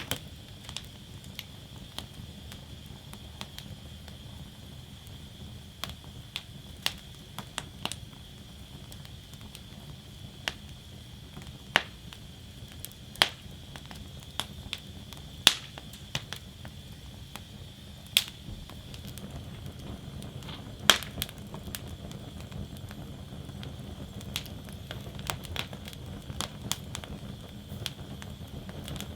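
Wood fire burning in a fire basket, crackling: irregular sharp pops and cracks every second or two over a steady low rumble of the flames.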